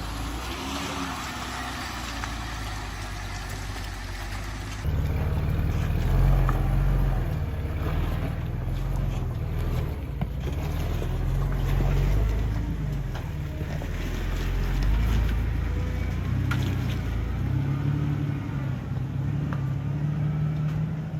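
Off-road vehicle engine running, a low rumble that jumps louder about five seconds in and then rises and falls unevenly.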